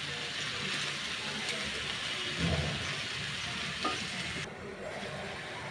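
Diced pumpkin sizzling in oil in a non-stick wok while a wooden spatula stirs it, with a dull knock about halfway through and a sharp click of the spatula on the pan soon after. The sizzle drops away abruptly near the end.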